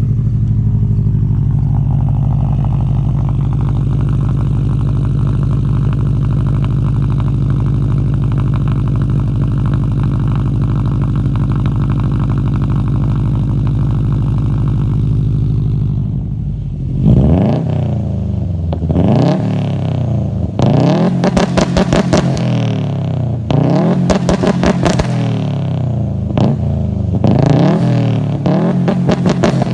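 2011 Subaru STI's turbocharged 2.5-litre flat-four idling steadily through an Invidia single-exit catback exhaust, with a Cobb catted downpipe and catless up-pipe. About halfway through it is blipped repeatedly, each rev rising quickly and falling back, several in a row.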